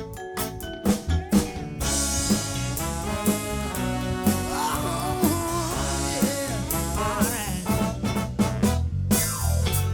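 Live band playing an upbeat song with bass and drum kit, the drum striking about once a second, and a wavering lead melody sounding in the middle of the passage.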